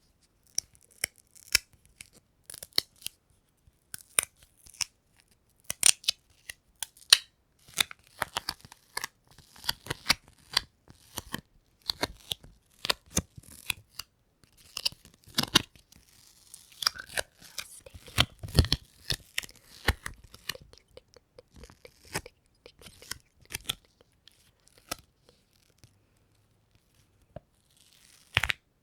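ASMR sticky sounds: something tacky being pressed and peeled apart close to the microphone, giving a quick, irregular run of crackles and snaps. The crackles thin out near the end, and one sharper snap comes just before it ends.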